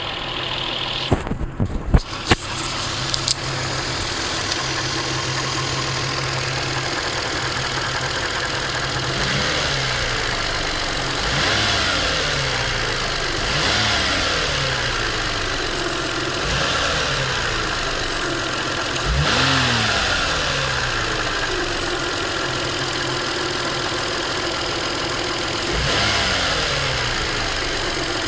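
Toyota 1MZ-FE 3.0-litre V6 engine idling, then blipped several times, its pitch rising and falling back to idle each time. A few sharp knocks sound a second or two in.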